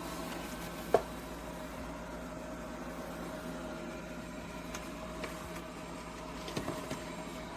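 iRobot Roomba 105 robot vacuum running with a steady whirring motor hum as it heads back to its dock. A sharp click about a second in and a few lighter ticks later.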